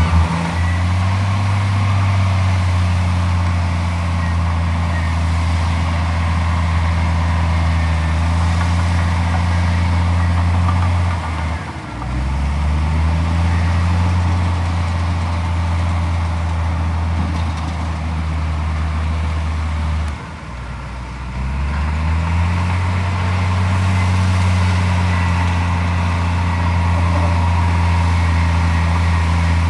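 Komatsu D41P bulldozer's diesel engine running steadily under load. Its note sags and then picks back up twice, about a third and two-thirds of the way through.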